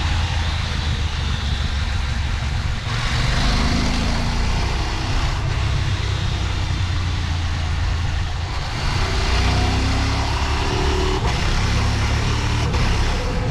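KTM Norden 901's parallel-twin engine pulling the motorcycle along a winding road. Its pitch rises and falls with the throttle through the bends, over a steady rush of wind and road noise.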